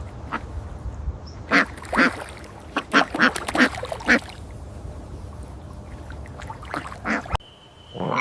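Animal calls: a run of short, repeated calls in quick groups over a low background rumble. The recording cuts off suddenly about seven seconds in.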